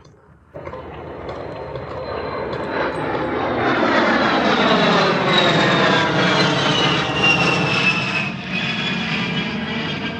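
A-10 Thunderbolt II's twin turbofan jet engines on a flyby, building to a loud rush and then easing off. A high whine falls steadily in pitch as the jet passes.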